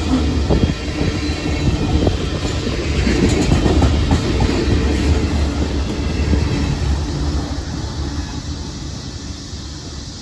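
Freight train of tank cars rolling past, its steel wheels clacking over the rail joints. The sound fades steadily over the last few seconds as the last car, a covered hopper, goes by and the train moves away.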